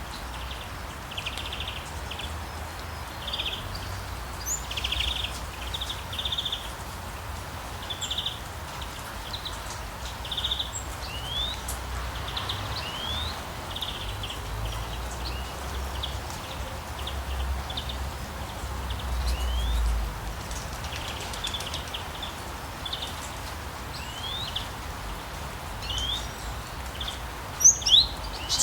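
Steady forest rain with birds calling over it: short chirpy trills about once a second and quick rising whistles, with a few louder, sharper calls near the end. A low rumble swells under it about two-thirds of the way through.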